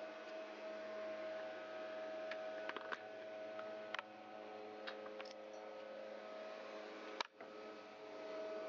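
Steady electrical hum, with scattered light clicks and taps as chainsaw handle and body parts are handled and fitted together. The sharpest click comes about seven seconds in.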